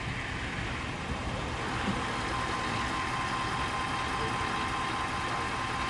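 A vehicle engine idling, a steady low rumble, with a thin steady whine coming in about two seconds in.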